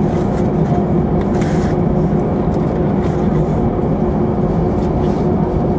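Steady engine and cabin drone inside an Airbus A319 airliner, with a few steady humming tones and no change in power.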